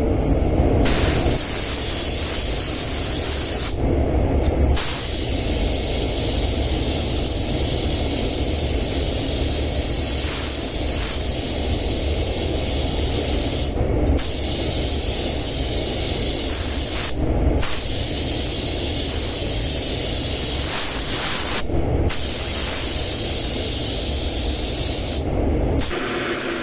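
Compressed-air paint spray gun hissing in long passes, the trigger released for short breaks about five times. A steady low rumble runs underneath.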